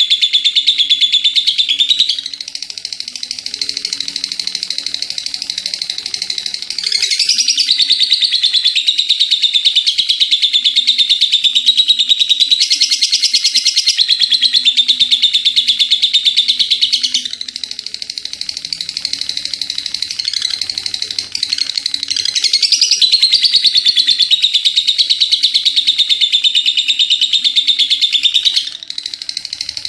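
Lovebird singing a long 'ngekek': a continuous, very rapid high-pitched chattering trill, louder for long stretches and softer in between.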